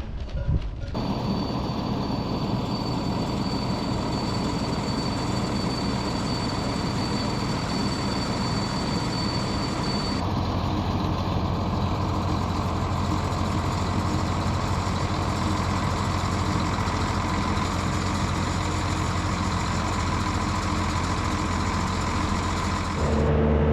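Tractor engine running steadily, heard in a few edited clips, with the sound changing abruptly about a second in and again about ten seconds in.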